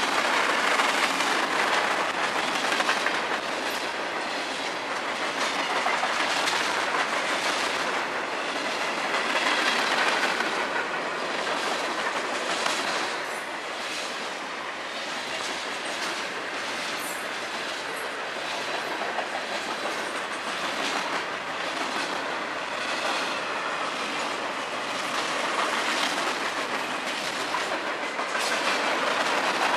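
Freight train of tank cars and covered hoppers rolling past close by. Its steel wheels make a steady rolling noise broken by repeated clicks as they pass over rail joints.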